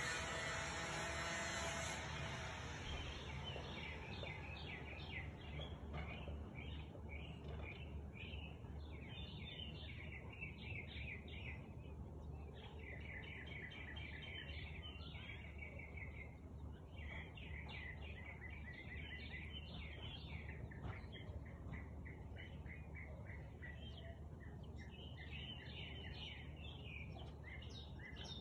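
A small songbird singing in rapid trills of short repeated notes, phrase after phrase, over a steady low background rumble. A broad hiss fades out over the first two seconds.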